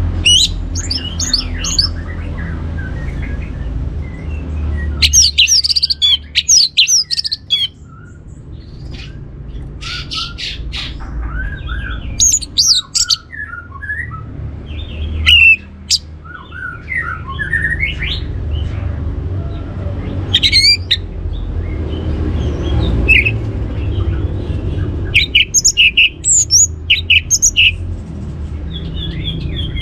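Orange-headed thrush singing in bursts of quick, high, varied phrases separated by short pauses, over a steady low hum.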